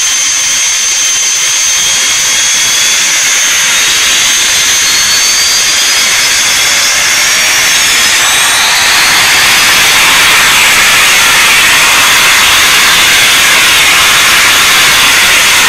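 Synthesized twin-turbine jet engine sound from a Benedini TBS Mini sound module's speaker, in its throttle-triggered acceleration mode. A hissing turbine whine whose high tones glide upward through the middle, then runs steadily and a little louder.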